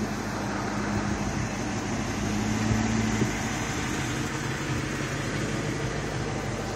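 2003 Ford Mustang SVT Cobra's supercharged 4.6-litre V8 idling steadily, a low hum whose tone shifts slightly about three seconds in.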